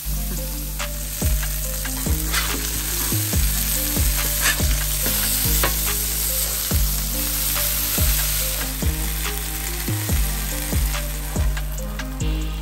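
Meat sizzling as it cooks, with a steady hiss of frying. Background music with a steady beat and bass plays over it.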